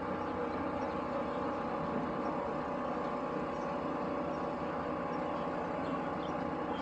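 An engine or motor running steadily at a constant pitch, with no change in speed.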